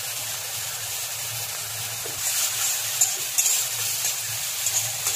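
Sliced onions sizzling in hot mustard oil in a steel kadai, with a steady hiss. From about two seconds in, a metal spatula stirs and scrapes them against the pan, bringing louder crackling and several sharp clicks.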